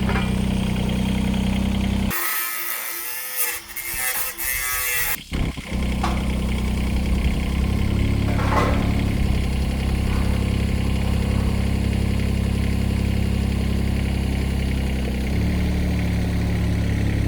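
An engine idling steadily with a low, even note. From about two to five seconds in it gives way to a louder, higher, noisier sound, then it resumes, its note changing slightly near the end.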